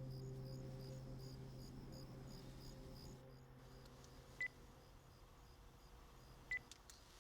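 A low steady drone fades away while faint high chirps repeat about three times a second. Later come two short, sharp electronic beeps about two seconds apart, then a few small clicks.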